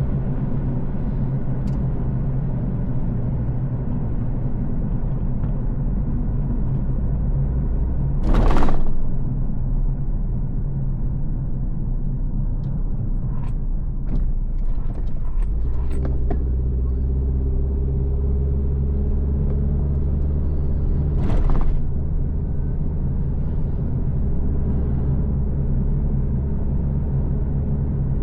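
Steady low rumble of a car driving along a road, engine and tyre noise, with two brief louder whooshes, one about a third of the way in and one about three quarters through, and a few faint clicks between them.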